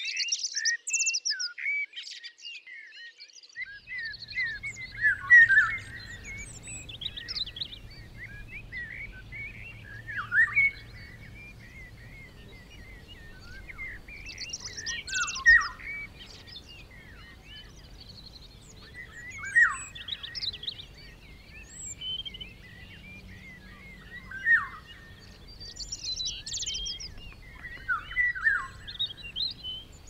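Several songbirds chirping and singing in overlapping short calls and trills, with a louder song phrase every few seconds. From about four seconds in, a faint steady low rumble lies beneath.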